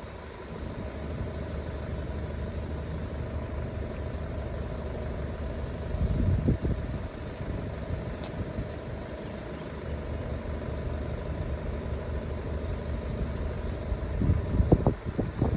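Diesel locomotive running light, its engine giving a steady low drone, with brief gusts of wind on the microphone about six seconds in and near the end.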